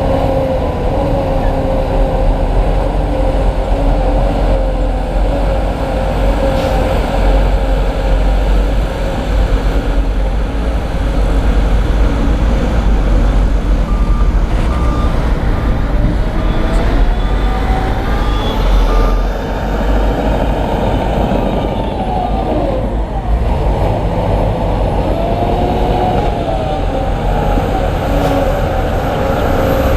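Heavy diesel construction machinery running, with the engine revs rising and falling. A reversing beeper sounds a steady series of beeps for several seconds around the middle.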